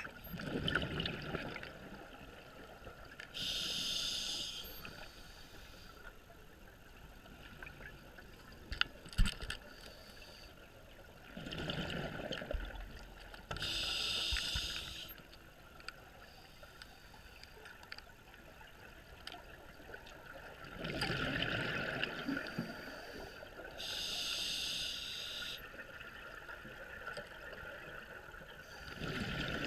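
A scuba diver's regulator heard underwater, breathing slowly and evenly: a hissing inhalation and a gurgling rush of exhaled bubbles, repeating about every ten seconds for three breath cycles. A few sharp clicks come about nine seconds in.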